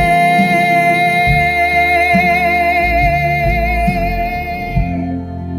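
A woman's voice holding one long sung note with vibrato over a country backing track of bass and guitar; the note fades out about five seconds in.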